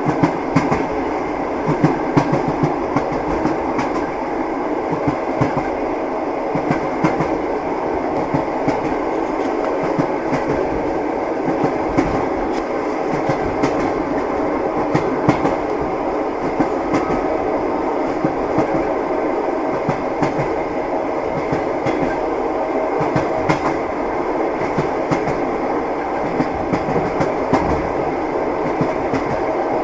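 Train wheels clacking over the rail joints, heard from inside a passenger compartment: a steady rolling rumble with frequent sharp clicks.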